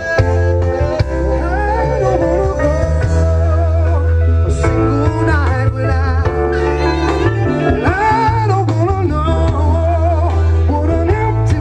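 A live band playing a bluesy soul song, with a steady bass line under a bending, wavering lead melody and a man singing.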